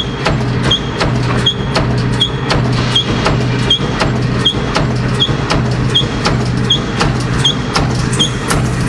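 Factory production machine running: a steady hum under a fast, regular clatter of knocks, with a short high squeak repeating about every three-quarters of a second.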